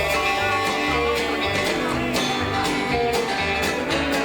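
Live rockabilly band playing a fast stroll dance tune, guitar over a bass line and a steady drum beat.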